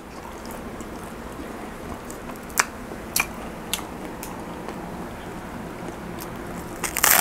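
Close-miked chewing of a BLT sandwich and crinkle fries, with several sharp mouth clicks or smacks about half a second apart, and a louder bite near the end.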